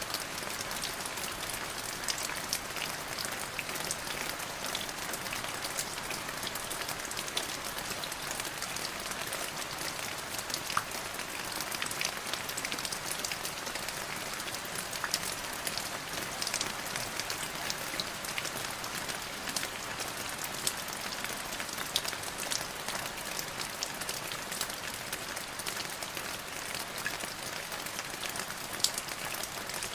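Steady rain falling on a surface, a dense patter of many small drop impacts.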